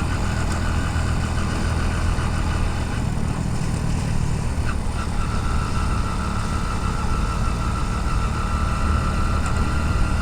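Motorcycle engine running steadily while riding, heard from a helmet-mounted camera along with wind and road noise. A thin steady high whine joins it about halfway through.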